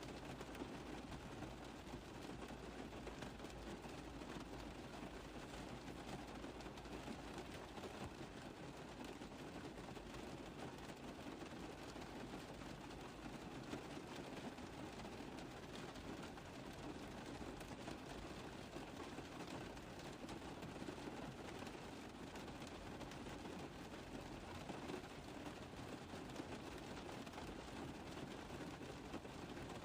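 Rain tapping on a car roof: a steady, even patter of many small drops.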